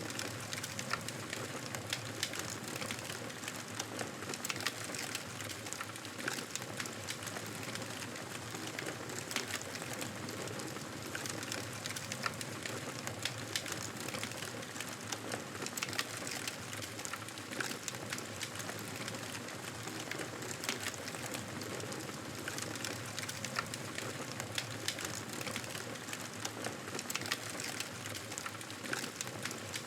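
Campfire burning: a steady hiss with frequent sharp crackles and pops.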